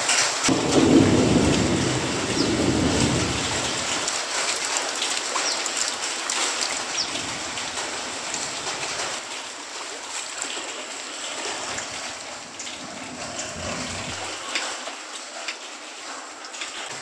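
Steady rain falling, with a low rumble of thunder during the first few seconds.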